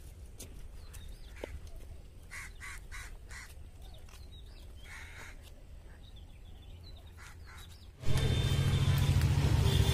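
Birds calling in the trees: short calls repeated in quick little series over a quiet background. About eight seconds in, a much louder steady noise with a low hum cuts in suddenly.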